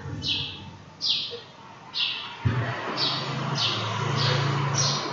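A bird chirping repeatedly: about seven short, high chirps, roughly one a second, over a faint low hum.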